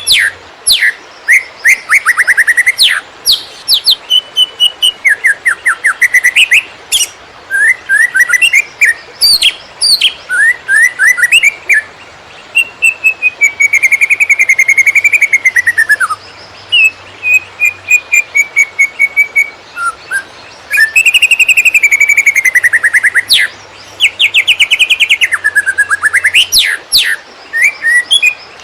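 A green leafbird (cucak ijo) singing in the rapid, erratic 'konslet' style: a loud, varied run of fast trills and rising and falling whistled phrases, broken by short pauses.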